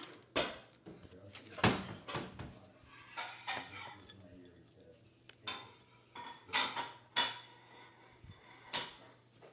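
Utensils clinking and knocking against dishes, about nine separate clinks and taps with pauses between them, a few ringing briefly.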